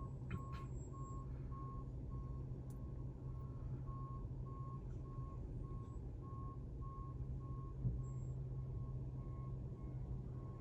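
Tractor-trailer's backup alarm beeping steadily in a regular string of short same-pitch beeps as the truck reverses, over the low steady hum of its running engine.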